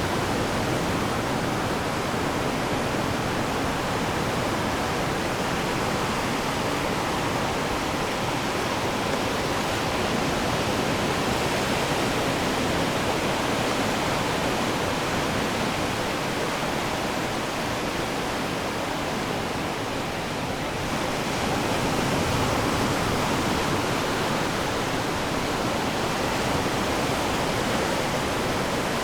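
Ocean waves breaking and washing on the shore: a steady, even rush of surf that dips slightly about twenty seconds in and then swells again.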